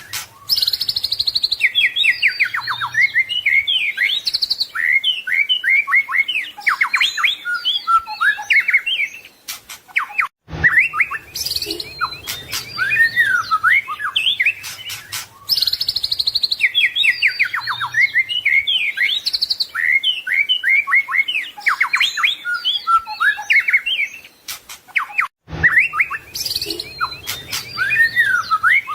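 White-rumped shama (murai batu) singing a fast, varied song of whistles, trills and sweeping notes packed with mimicked phrases. The song breaks off briefly about ten seconds in and again near the end, and the same passage starts over each time.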